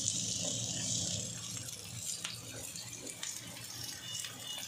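Sliced onions and soaked cashews sizzling in hot oil in a nonstick pan while a wooden spatula stirs them, with a few light scrapes and taps of the spatula. The hiss is strongest in the first second or so, then eases.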